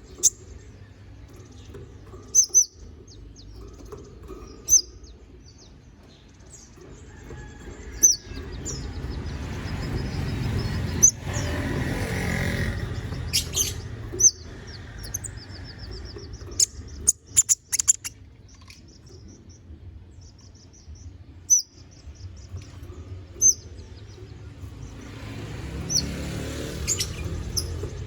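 Konin (kolibri ninja sunbird) singing in full voice: short, high chirps and quick trilled runs of notes in varied phrases. Sharp clicks come now and then over a rushing background noise that swells twice.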